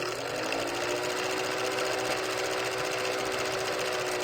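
A small motor whirring steadily, its pitch rising slightly just after it starts and then holding level.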